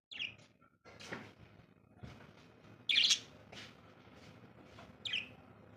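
Birds chirping: a handful of short, high chirps spread out, a few of them dropping in pitch, the loudest about three seconds in.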